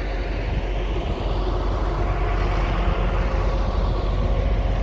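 Motor vehicle noise: a steady engine hum and tyre noise of road traffic, getting a little louder from about a second in.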